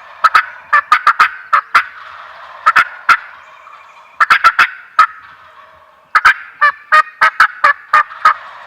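Wild turkey gobblers gobbling loud and close, in about six rattling bursts of rapid notes in quick succession.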